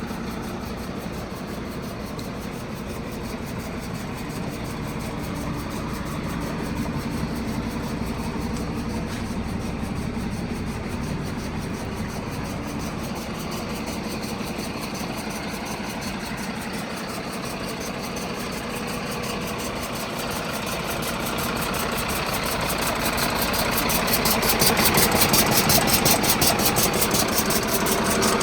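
Mercedes-Benz 1524 sweeper truck's 238 hp diesel engine idling steadily; the sound grows louder and brighter over the last several seconds.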